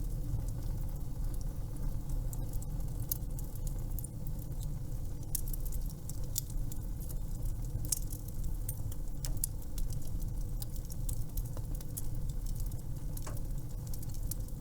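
Fireplace wood fire crackling: irregular sharp pops and snaps over a low steady rumble.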